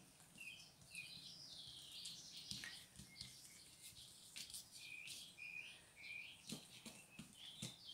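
Faint, continuous bird twittering: many short chirps in quick succession. A few soft clicks come in between.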